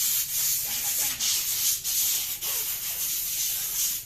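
A loud hiss, mostly high-pitched, broken by short dips every half second to a second.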